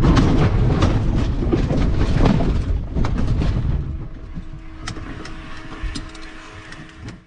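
Small plane rolling over a rough farm field after an emergency landing with a failed engine: a loud rumble and rattling for about three and a half seconds, then dying down to a quieter hum with a steady tone as it slows.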